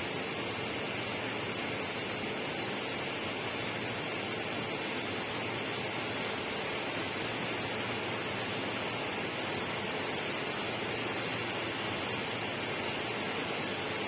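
Steady, unchanging rushing noise spread evenly across all pitches, with no distinct events.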